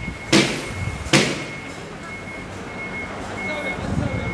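Two sharp bangs within the first second or so, then a heavy vehicle's reversing alarm beeping about once a second over the rumble of a truck engine.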